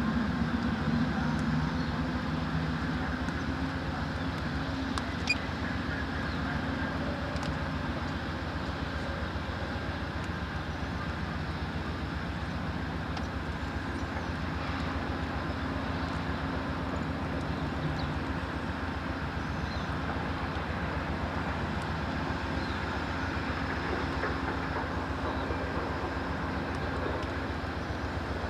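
EMD SW9 switcher locomotive's V12 diesel engine running steadily at low throttle, with one sharp click about five seconds in.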